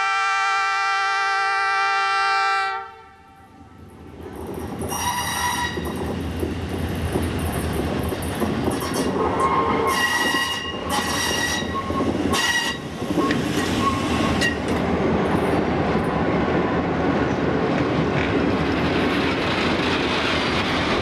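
A locomotive's multi-note air horn sounds one long chord that cuts off about three seconds in. The train then comes up and runs past with a rumble and clatter of wheels on rail, sounding several shorter horn blasts along the way.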